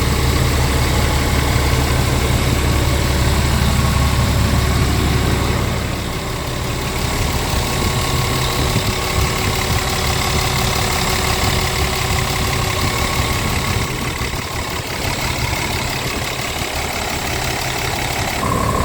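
Scania R truck's diesel engine idling steadily. The deep low hum drops away about six seconds in, leaving a softer, steady running sound.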